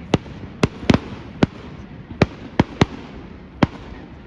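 Fireworks bursting overhead in about eight sharp, separate bangs at irregular intervals, over steady background noise, as the display winds down; the last bang comes about three and a half seconds in.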